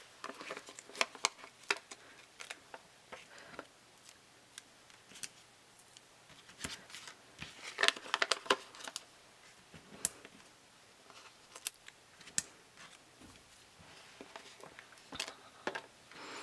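Stampin' Dimensionals foam adhesive dots being peeled from their backing sheet and card stock being handled: scattered light clicks, ticks and crinkles, busiest about halfway through, with a short rustle near the end.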